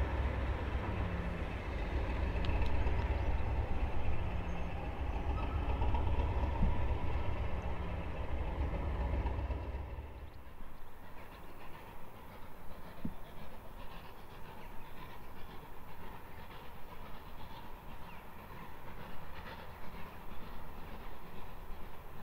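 Heritage railway train running close by: a heavy low rumble with a regular pulse about every second and a half, cutting off abruptly about ten seconds in. After that, only a quieter faint railway background with scattered light clicks.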